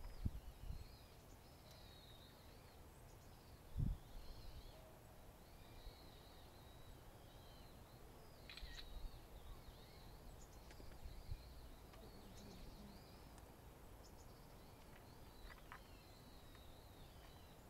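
Quiet outdoor ambience with faint, repeated high chirps of distant birds, and a brief low thump about four seconds in.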